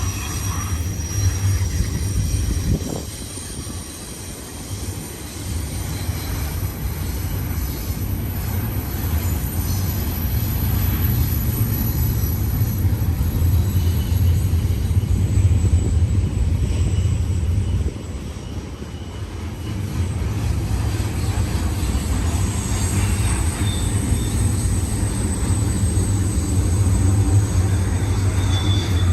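A BNSF freight train rolls through a curve with a steady low rumble, and faint high wheel squeal comes and goes from the wheels in the curve. The rumble drops back briefly twice.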